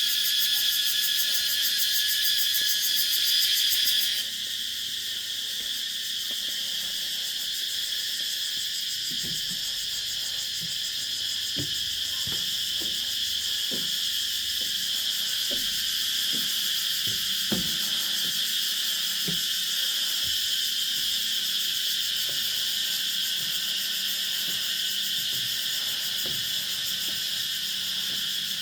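Dense chorus of calling insects with a loud, pulsing high buzz on top. About four seconds in, that pulsing layer cuts off abruptly as the insects fall silent at a person's approach, leaving a steadier high chorus.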